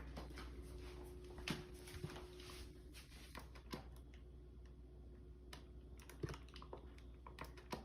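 Quiet room tone with a faint steady hum and scattered faint clicks and taps.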